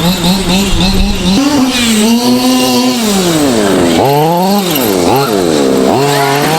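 Small two-stroke engine of a 1/5-scale gas RC truck revving up and down, its pitch rising and falling again and again, with sharp drops off the throttle about four and five seconds in.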